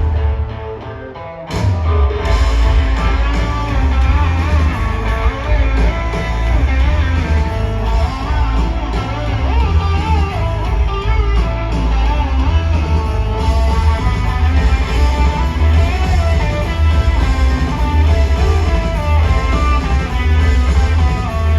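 Live rock band playing an instrumental passage: electric guitar lines with bent notes over bass guitar and drums, with no vocals. The full band comes back in loud about a second and a half in after a brief quieter stretch.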